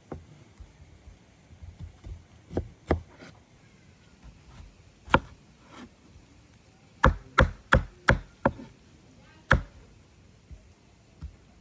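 Knife chopping food on a cutting board. A few scattered strokes come first, then a quick run of five at about three a second, then a single stroke.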